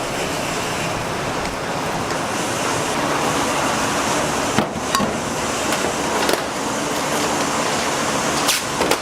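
Steady loud background noise with a few sharp knocks scattered through it.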